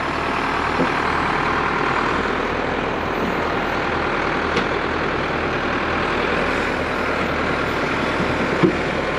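Heavy equipment engine running steadily under load while it backs a lowboy trailer carried on its forks.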